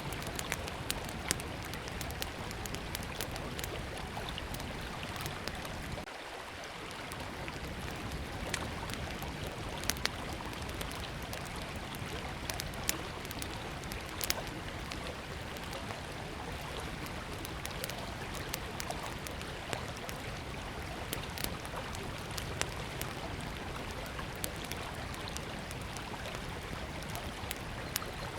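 Small wood fire crackling with frequent sharp pops over the steady rush of a flowing river.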